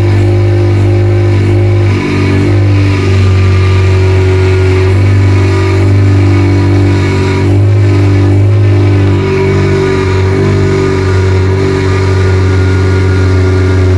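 Ford Fiesta Kit Cup rally car's 1.4-litre 16-valve Zetec four-cylinder engine running on its first start after the build. It holds a loud, steady note, with a few brief changes in pitch.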